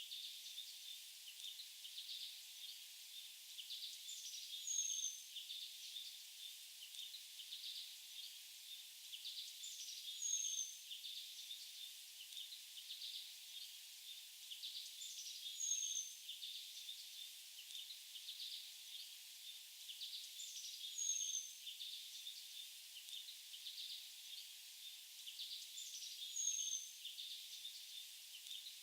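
Faint forest birdsong: a steady twittering of small chirps, with a short, high, slightly falling call repeating about every five seconds.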